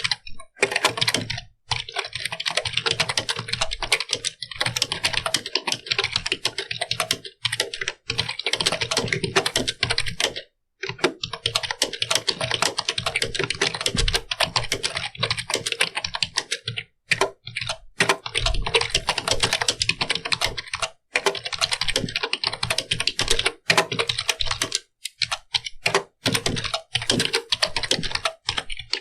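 Computer keyboard being typed on quickly and continuously: dense, rapid key clicks in runs of a few seconds, broken by brief pauses.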